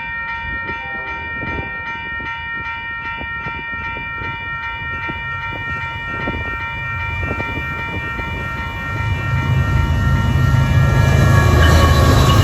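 Grade-crossing warning bell ringing in an even rapid series, about three strikes a second. About three-quarters of the way through, the low rumble of an approaching train builds and grows louder.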